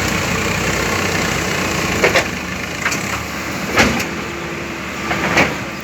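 Heavy diesel machinery engine running steadily, with several sharp knocks from about two seconds in, the loudest near the four-second mark.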